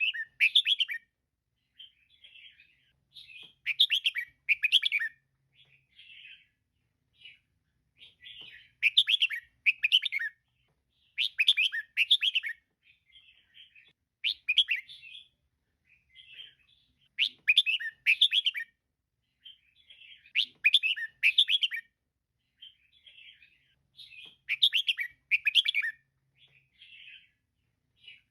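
Female red-whiskered bulbul calling: clusters of quick, high chirping notes repeated every two to three seconds, with short pauses between them.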